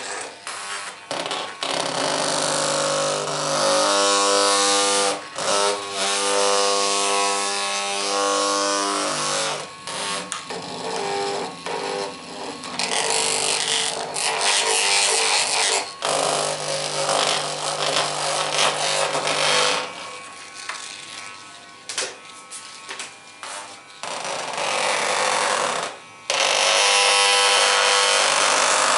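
A small electric motor buzzing in stretches, starting and stopping several times, with close scratching and rubbing noise against the microphone throughout.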